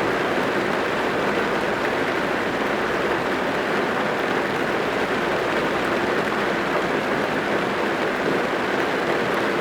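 Steady rain drumming on the roof and glass of a car, heard from inside the cabin.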